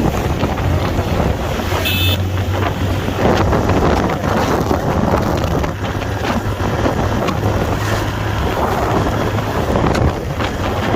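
Motorcycle engine running steadily while riding, with wind buffeting the microphone. A short high-pitched sound cuts in briefly about two seconds in.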